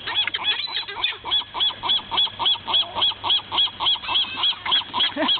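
A waterfowl honking in a rapid, very regular series, about three calls a second, with other birds calling irregularly in the background.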